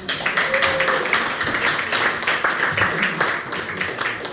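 Audience applauding, many hands clapping, with a few whoops; it starts at once and fades near the end.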